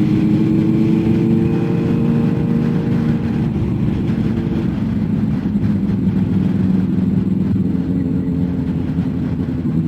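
Motorcycle engine running at road speed. Its pitch eases down slightly over the first few seconds, then holds steady.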